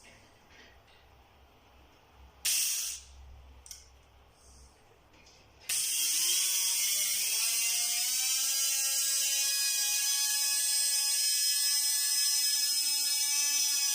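Brushed electric power-tool motor, freshly fitted with new brushes and a cleaned armature, switched on for a test run: a whine that rises in pitch for about two seconds as it spins up, then runs steadily at full speed. A few seconds before it starts there is one brief, sharp burst of noise.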